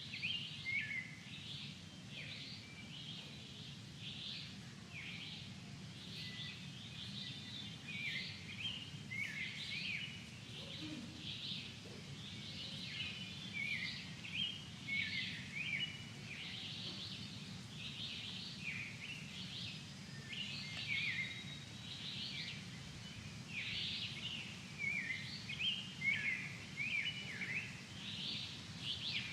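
A nature-sounds recording of many small birds chirping in quick, overlapping calls, over a steady low rumble.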